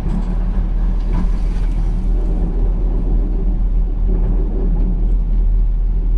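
Pickup plow truck's engine running steadily under load in four-wheel drive, a continuous low rumble with road and drivetrain noise.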